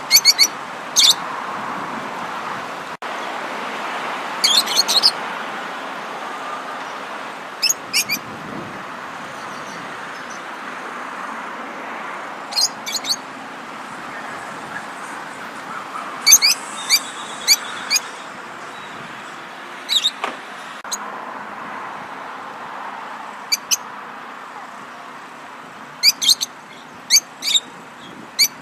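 Birds chirping in short, scattered bursts of high notes over a steady background hum, as in a morning chorus.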